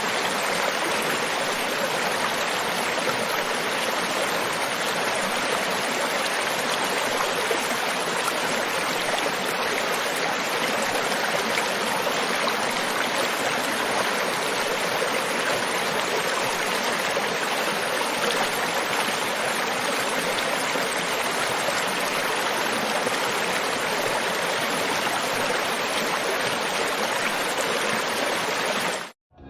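Flowing river water rushing steadily, cutting off suddenly near the end.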